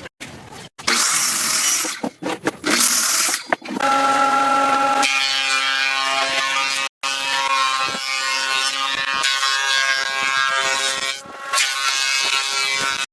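Woodworking power tools running and cutting wood in several short clips broken by abrupt cuts: first a harsh hiss, then from about four seconds a steady motor whine with a ringing pitch over the cutting noise.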